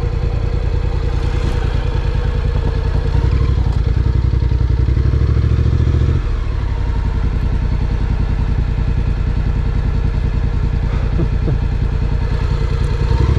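Honda NC750X parallel-twin engine running as the motorcycle is ridden. It grows a little louder about three seconds in, then changes and eases off just past six seconds.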